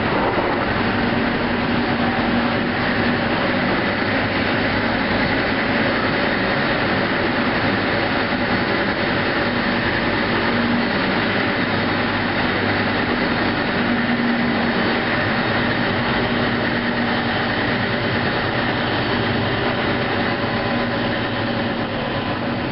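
EuroCity passenger train running steadily along open track: a continuous rumble of wheels on rails with a steady hum underneath.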